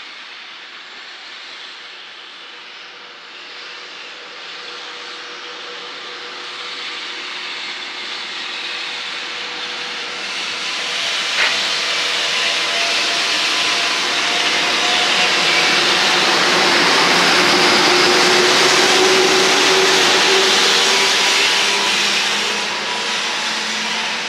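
A train passing close by: a rushing rumble that builds steadily, peaks about two-thirds of the way in and begins to ease near the end, with faint whining tones running through it and one sharp click about halfway.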